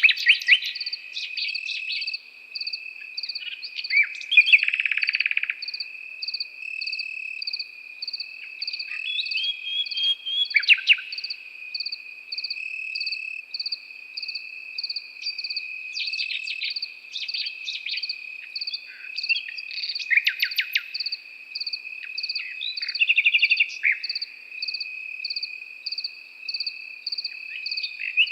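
Nightingale singing short phrases of rapid repeated notes every few seconds, over crickets: a steady high trill and a regular chirp about twice a second.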